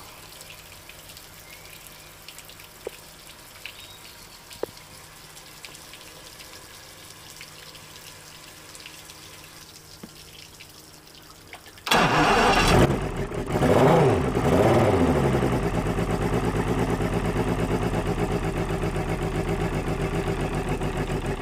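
Evinrude E-TEC 300 HP outboard being cranked on its starter: after a faint steady hum with a few clicks, the starter engages about twelve seconds in and turns the engine over with a steady rhythmic churn for about nine seconds, then stops abruptly. The motor has a no-start problem.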